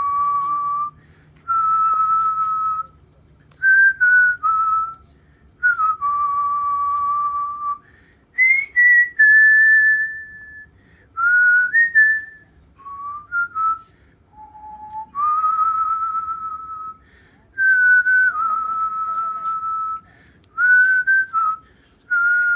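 A person whistling a slow tune, mostly long held notes that step up and down in pitch, phrase after phrase with short pauses between.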